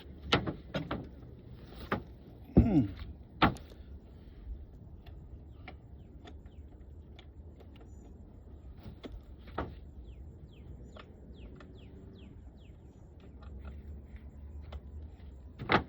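A few sharp knocks and a short creak in the first few seconds, from equipment being handled, then birds chirping faintly in quick short calls.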